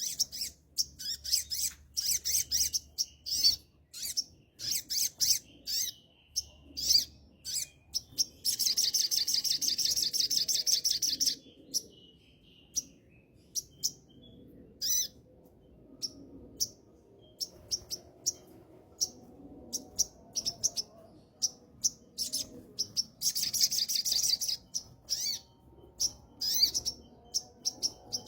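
A sogon songbird singing while in moult: a stream of short, sharp high chirps, broken twice by long, rapid trills lasting two to three seconds each.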